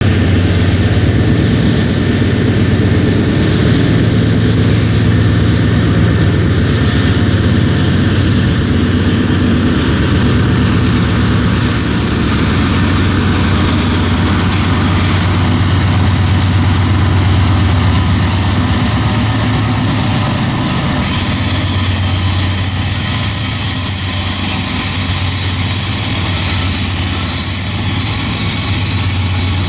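Freight train passing close by: diesel locomotive engines running with a steady low hum over the noise of steel wheels on rail.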